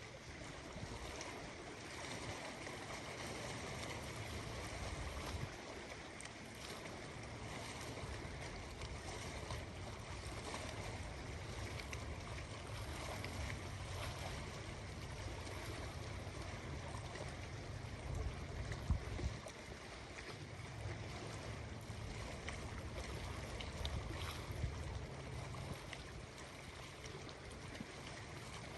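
Steady rush of ocean waves along the shore, mixed with wind and a low wind rumble on the microphone.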